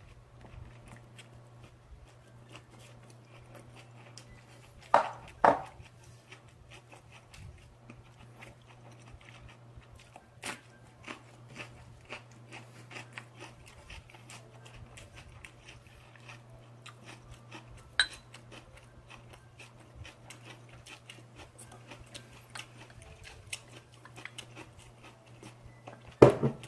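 A person chewing and biting into charcoal-grilled pork belly wraps, with many small wet mouth clicks. Louder knocks come twice about five seconds in, again near ten and eighteen seconds, and once near the end. A steady low hum runs underneath.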